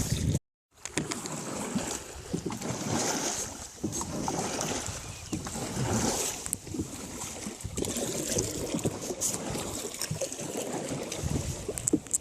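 Water sloshing and splashing, with wind on the microphone and small irregular knocks; the sound drops out completely for a moment near the start.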